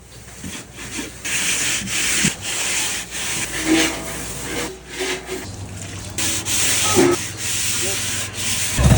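Brass plate being sanded, a rasping rub that comes in stretches of about a second with short breaks. A steady low machine hum joins about halfway through.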